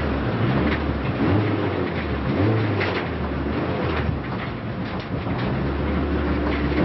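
Renault Clio race car's engine heard from inside the cabin at racing speed, its note rising and falling as the revs change, over road and cabin noise.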